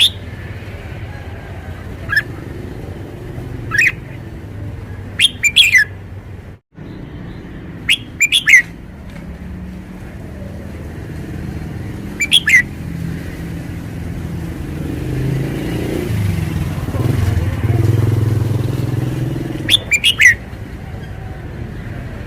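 Red-whiskered bulbul singing short, loud phrases every few seconds, some in quick pairs or triplets. Beneath them a steady traffic rumble swells in the second half as a motor vehicle passes.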